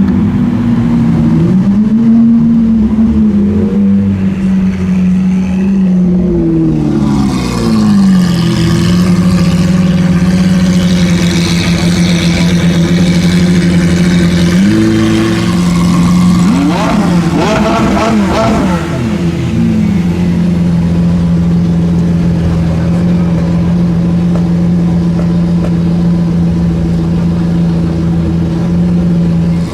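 High-performance car engines revving and idling. Several throttle blips rise and fall in pitch in the first few seconds, and more crossing pitch sweeps come about halfway through. A steady idle holds through the rest.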